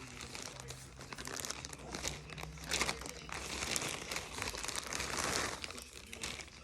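Packaging crinkling and rustling as a parcel is unwrapped by hand, with many small crackles, loudest about three seconds in and again from four to five and a half seconds in.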